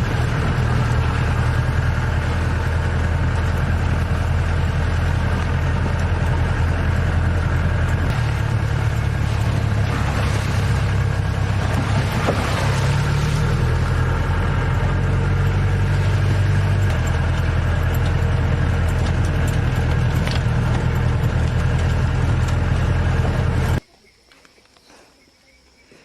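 Safari vehicle's engine running steadily, a low hum with some rattle and noise over it. It cuts off abruptly about two seconds before the end, leaving faint background sound.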